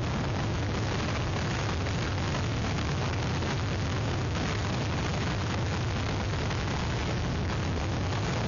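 Hurricane storm wind buffeting the outdoor webcam microphone: a steady rushing noise with heavy low rumble, without letup.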